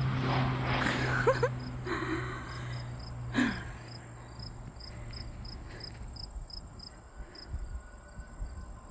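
Low-flying crop-spraying airplane's propeller engine droning and fading away over the first several seconds, leaving crickets chirping steadily at about two chirps a second.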